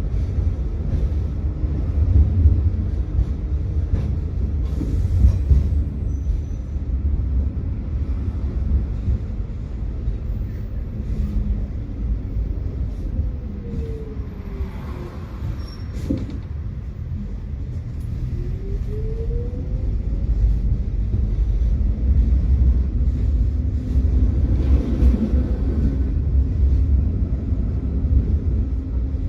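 Electric tram running on rails with a steady low rumble. Its motor whine drops in pitch as it slows about halfway through, then climbs again as it picks up speed.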